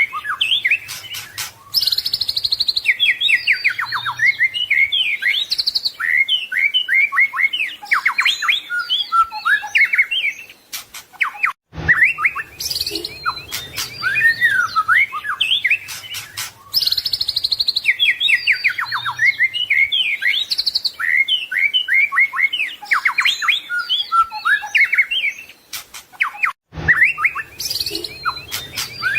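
White-rumped shama (murai batu) singing a long, varied song of rapid whistles, trills and chattering phrases, rich in mimicked calls of other birds. Twice it cuts out for an instant and the same stretch of song starts over, as in a looped recording.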